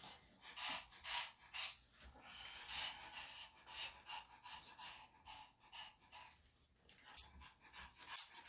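Senior Shih-Tzu panting, short breaths at about two a second, with a couple of sharp scraping sounds near the end.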